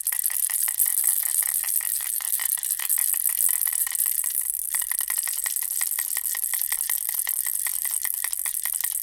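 Bear-ball baby rattle shaken continuously: a dense, fast stream of small rattling clicks with a brief lull about four and a half seconds in.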